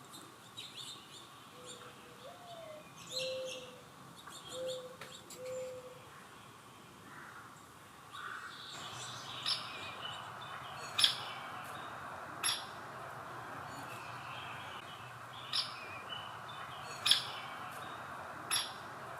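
Wild birds calling: assorted short chirps with a few low whistled notes, then a run of six sharp single call notes about a second and a half apart.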